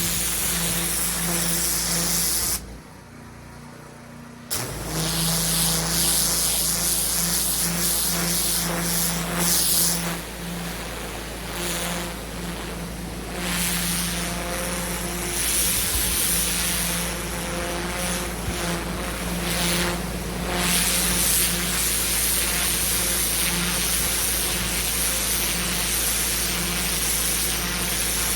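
Pressure washer running steadily, its motor humming under the hiss of the high-pressure water jet on block paving. The sound drops away for about two seconds near the start, then comes back, with small surges later on.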